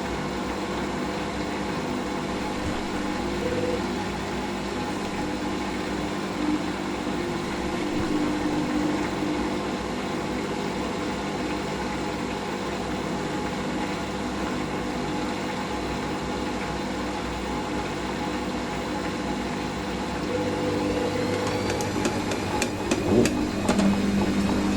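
Hoover SIX Inter@ct Whisper 1600 washing machine running steadily with its drum turning ahead of a 400 RPM intermediate spin. Near the end a rising whine comes in and it grows louder as the drum begins to speed up.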